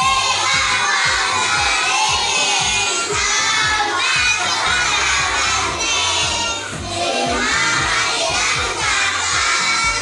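A class of young children singing loudly together, close to shouting the words, over recorded music with a steady beat.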